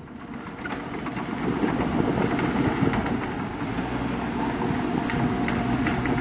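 Heavy diesel engine running steadily, its sound building over the first couple of seconds.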